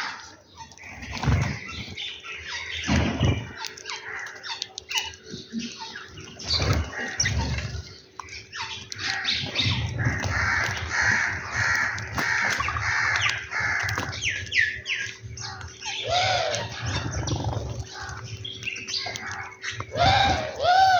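Birds calling and squawking over food: a rapid run of repeated short chirps in the middle, and a few lower, arching calls near the end.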